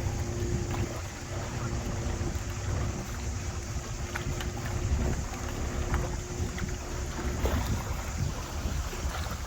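Tour boat's motor running steadily under way, a low rumble with wind buffeting the microphone.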